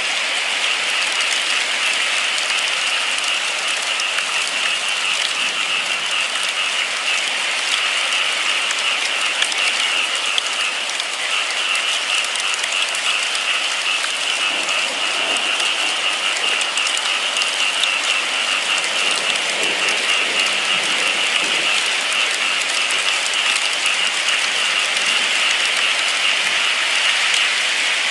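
Steady rain falling, an even hiss of many drops without a break, brightest in the upper range.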